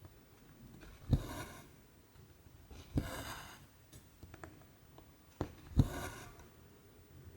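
Needle stitching through cross-stitch canvas: a sharp tap as it pierces the taut fabric, then a short rasp of cotton thread drawn through. This happens three times, two to three seconds apart.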